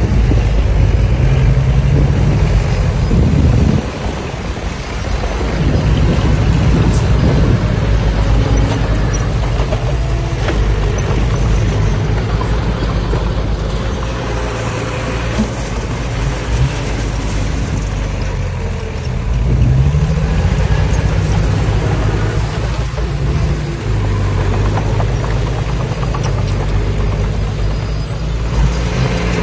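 Diesel engine of heavy earthmoving machinery running steadily, with a rise in pitch and loudness about twenty seconds in as it takes on more throttle.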